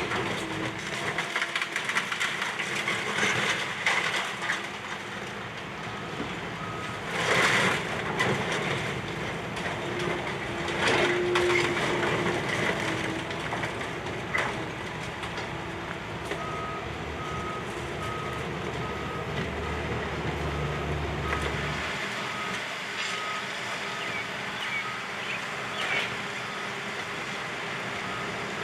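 Demolition machinery working, with two loud crashes of breaking debris about seven and eleven seconds in. From about halfway through, a vehicle's reversing alarm beeps steadily, roughly one and a half beeps a second.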